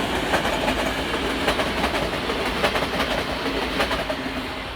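A train passing close by, its wheels clicking and clacking over the rail joints, the sound fading as it moves away near the end.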